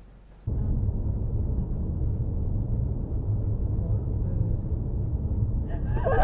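Steady low rumble of a moving car's road and engine noise, starting abruptly about half a second in; a man starts speaking near the end.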